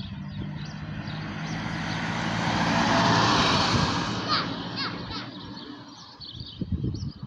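A motor vehicle driving past, its engine and tyre noise building to its loudest about three seconds in and fading away by about six seconds.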